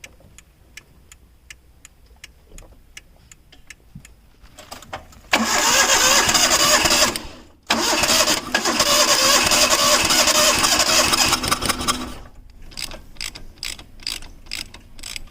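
Hyundai EON car engine cold-started after standing unused for about a year: the loud engine sound cuts out briefly, starts again and runs for about four seconds before stopping. Regular faint clicking comes before it and faster clicking after.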